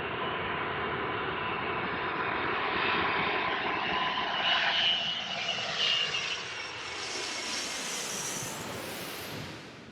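Airbus A380 jet airliner on landing approach passing low overhead: a steady roar of its engines with a whine running through it, growing brighter and higher as the aircraft closes in, loudest about halfway through.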